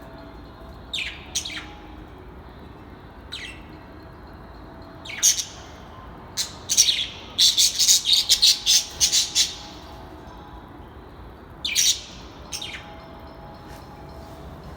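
Birds giving short, sharp chirping calls: scattered single calls, then a quick run of about a dozen in two seconds about halfway through, then two more near the end.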